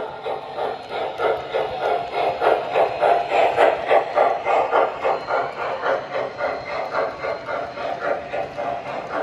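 Sound system of an MTH Nickel Plate Road 599 model steam locomotive (Proto-Sound 2, 5-volt) playing steam chuffing through its speaker as the engine pulls a train, a steady rhythm of about four chuffs a second.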